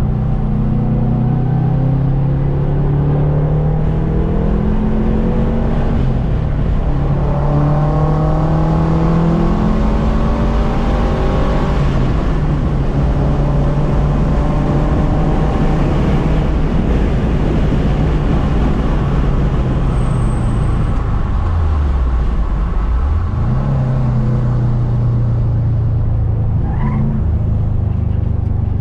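Subaru EJ257 turbocharged flat-four engine under hard acceleration on track. The revs climb and drop back several times in the first half as it shifts up, then fall steeply and climb again a few seconds before the end as it slows for a corner and accelerates out.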